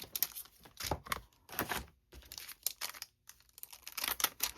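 Paper-crafting supplies being handled: irregular rustling and crinkling with soft taps, a dozen or so short strokes.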